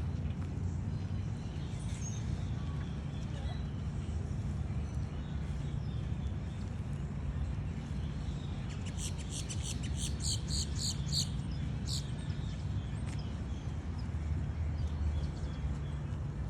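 A bird gives a quick run of about a dozen high chirps, roughly three or four a second, for some three seconds midway, over a steady low rumble.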